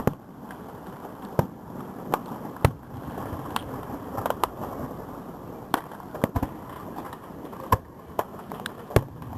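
Fireworks going off, about a dozen sharp pops and bangs at irregular spacing, some with a deeper thud, over a steady background rumble.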